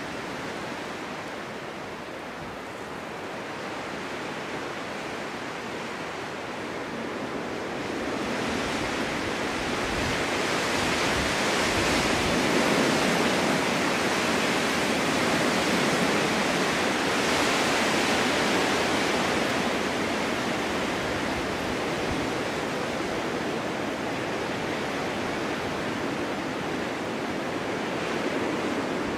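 Snowstorm wind blowing steadily, swelling into a stronger gust about a third of the way through and easing off again.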